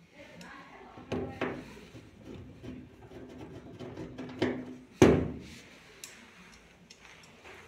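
Several knocks and thuds of parts and panels being handled during washing machine reassembly, the loudest just after five seconds in.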